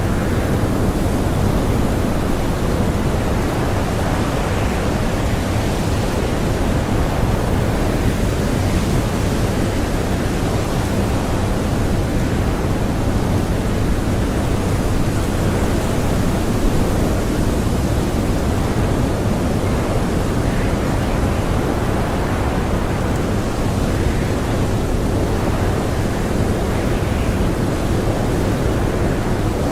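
Strong blizzard wind blowing steadily: a deep, even rush with no gusts or breaks.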